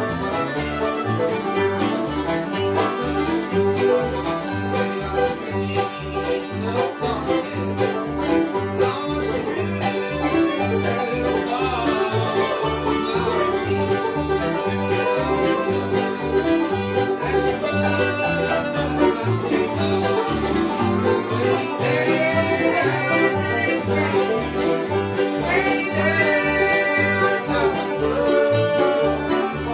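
Bluegrass band playing an instrumental passage: banjo and acoustic guitar picking over a steady alternating bass line, with a fiddle carrying sliding, sustained notes in the second half.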